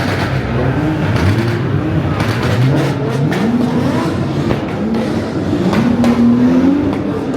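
Car engines revving and accelerating, the pitch climbing and levelling off several times, one rev after another.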